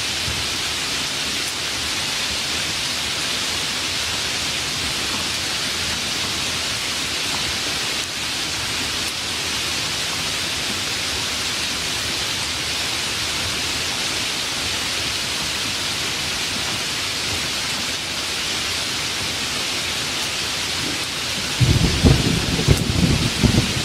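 Steady, even rain. Near the end a low rumble of thunder comes in and is the loudest sound.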